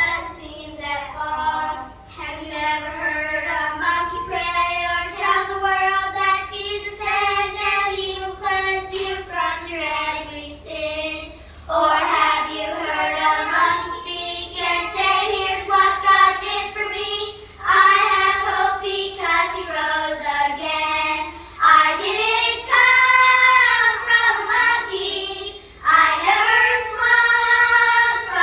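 A group of young children singing together in unison, a choir of second and third graders, in phrases with short breaks between them.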